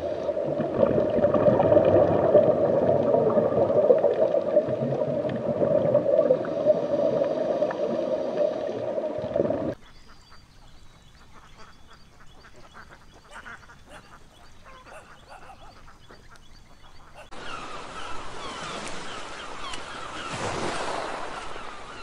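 Underwater water noise, a dense gurgling rush that cuts off suddenly about ten seconds in. A much quieter stretch with faint duck quacks follows, and from about seventeen seconds a louder waterside ambience with bird calls.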